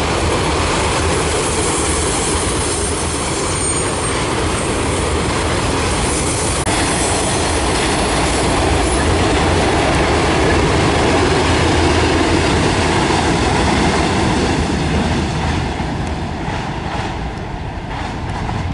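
Freight train of autorack cars rolling past, wheels clacking over the rail joints, with the heavier rumble of a BNSF rear distributed-power locomotive passing about ten seconds in. The sound then fades as the end of the train moves off, with a few last clicks from the wheels.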